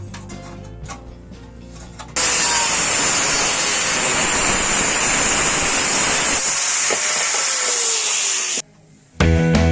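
A loud, steady hiss of compressed air from an air tool starts about two seconds in and cuts off abruptly near the end. Soft background music comes before it, and loud rock music comes in just after.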